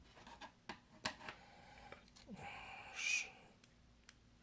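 Faint small clicks and taps of tools and tiny parts being handled while fitting a connector inside an iPhone, with a louder brief scrape or rustle about three seconds in.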